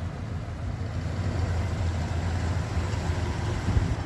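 1972 Chevrolet Impala's engine idling with a steady low rumble, with a brief louder bump shortly before the end.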